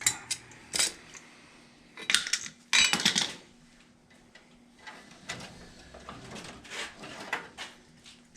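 Metal tools and small parts clinking and rattling as they are handled, with a loud clatter about three seconds in and softer clicks after it, over a faint steady hum.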